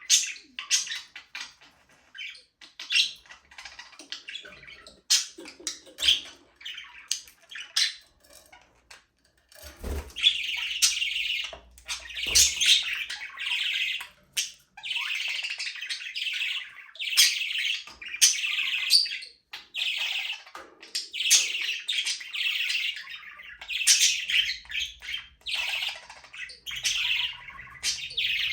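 Budgerigars chirping and chattering. Short scattered chirps at first, then from about ten seconds in a continuous warbling chatter with sharp calls over it. A couple of soft knocks come as the chatter begins.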